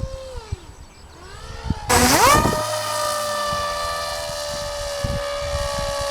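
Small motor of a Magnus-effect model aircraft whining at a wavering pitch, then spinning up sharply about two seconds in and holding a steady, loud high whine. Scattered low thumps sound underneath.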